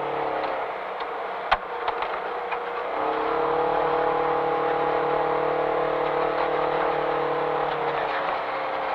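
Engine of a side-by-side off-road race car, heard from inside its cabin, running at a steady low speed. Its note drops away about half a second in, with a sharp click shortly after, comes back steady about three seconds in, and eases off again near the end.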